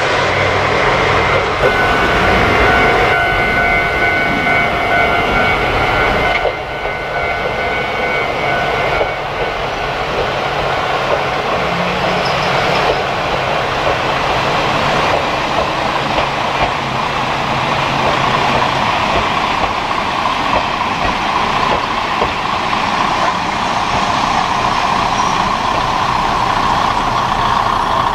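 Kominato Railway diesel railcar running along the line: steady engine and wheel-on-rail noise. A high steady whine sounds for several seconds near the start.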